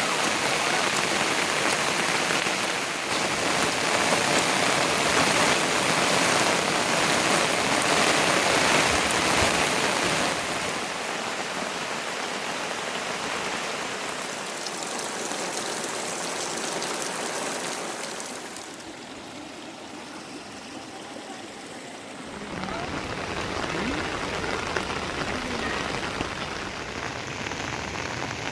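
Rain falling steadily as an even hiss. It gets a little quieter about ten seconds in, dips further for a few seconds later on, then picks up again.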